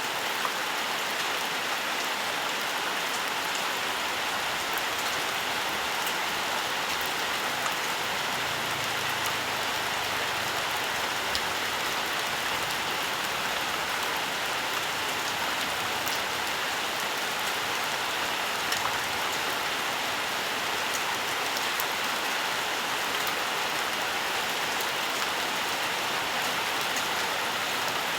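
Steady rainfall, a continuous hiss of rain with scattered individual drop ticks.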